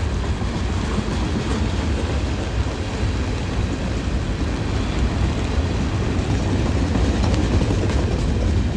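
CSX freight train rolling past: a steady, continuous noise of railcars on the rails.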